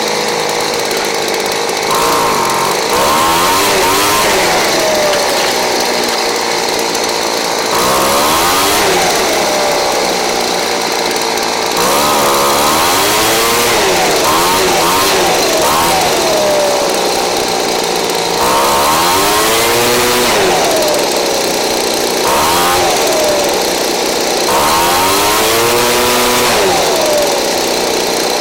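Craftsman 29cc handheld leaf blower's two-stroke engine running, revved up and let back down about five times, its pitch climbing and falling with each rev. It is running on an aftermarket Chinese spark plug, fitted to a blower that had no plug and would not start.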